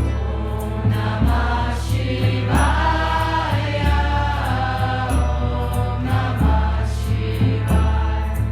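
Devotional mantra chanting by a group of voices over music with sustained low bass notes that change about every second.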